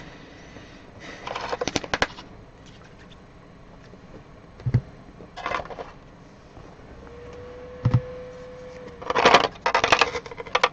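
Trading card pack wrapper and plastic card sleeves crinkling as cards are taken out and handled, in three bouts of rustling, the loudest near the end. Two soft knocks come in between, as things are set down on the table.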